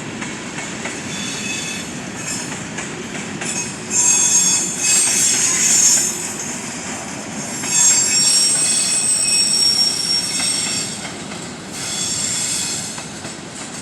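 Train rolling past on the rails with its wheels squealing high-pitched against the track, the squeal loudest in two stretches near the middle, over a steady rumble of the cars.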